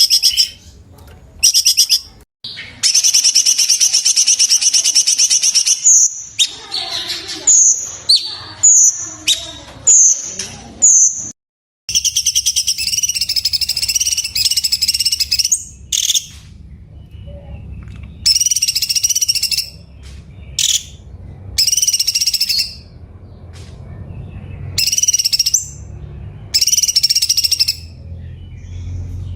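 Cucak cungkok singing: loud, rapid trilled phrases of one to two seconds each, broken by short pauses, with a run of short rising whistled notes about a third of the way in.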